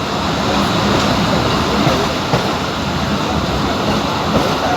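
Steady running noise of a moving commuter passenger train, heard from inside the carriage: an even rumble and rattle of the coach on the rails.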